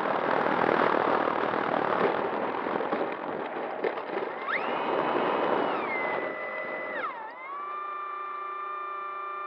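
A loud, even rush of wind on the microphone that eases off over the first few seconds. Electronic synthesizer music then comes in: stacked tones slide up and hold, drop in a swoop about seven seconds in, and settle into a held chord.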